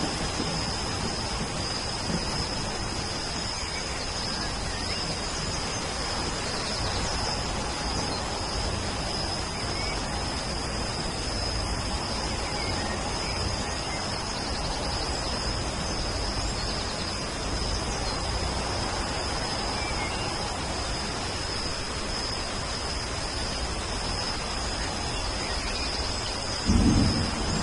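Steady rain falling, with a continuous high thin tone running through it. Near the end a low rumble of thunder sets in.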